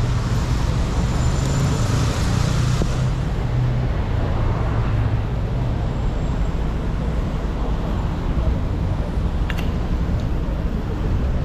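City street traffic: vehicles passing with a steady engine hum and tyre hiss, the hum strongest over the first few seconds. A single sharp click comes near the end.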